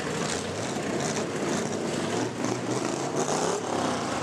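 A 4x4 truck engine running, its pitch rising briefly about two and a half seconds in.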